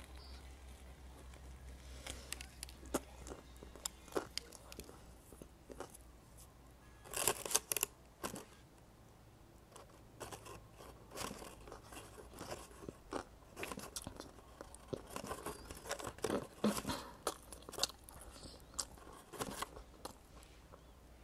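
Close-up sounds of a person biting and chewing a crusty bread roll: irregular crunches and moist chewing clicks, with the loudest bursts of crunching about a third of the way in and again past the middle.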